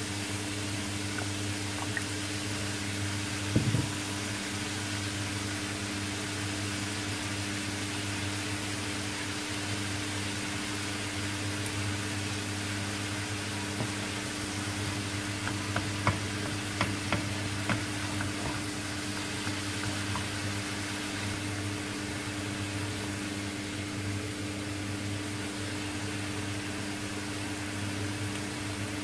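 Tofu-and-carrot filling frying in a nonstick pan, a steady soft sizzle over a constant low hum. A wooden spoon knocks against the pan a few times, about three and a half seconds in and again around halfway.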